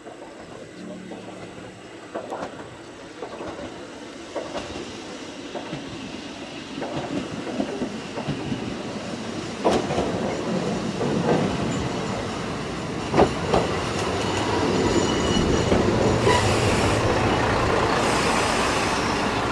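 A Wakasa Railway single-car diesel railcar approaches and runs past. Its wheels click over the rail joints as the running noise grows steadily louder, loudest near the end as the car comes alongside.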